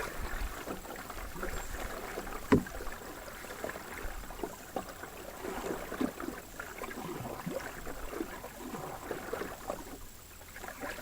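Canoe paddle dipping and pulling through the water, with small irregular splashes and drips against the hull, and one sharp knock about two and a half seconds in.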